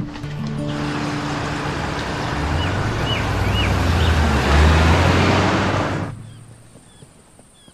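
A motor vehicle driving, its engine and road noise building to a peak before cutting off abruptly about six seconds in, over faint background music.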